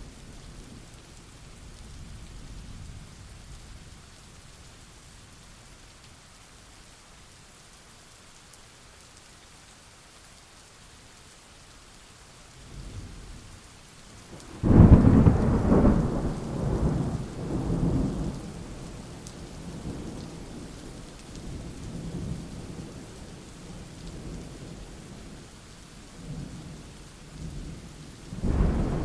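Thunderstorm with steady rain and thunder. A low rumble fades in the first seconds, then a sudden loud thunderclap comes about halfway through and rolls on in waves for a few seconds. Another peal swells near the end.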